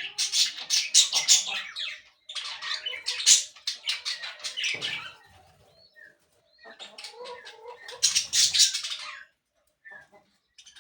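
Parakeets chattering in fast, shrill bursts of chirps and squawks, in three runs with short pauses between, trailing off near the end.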